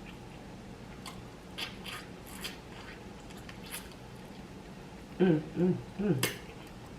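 Close-miked eating sounds: a few short, sharp mouth smacks and chewing clicks while eating baked BBQ chicken wings, then a short hummed vocal sound about five seconds in.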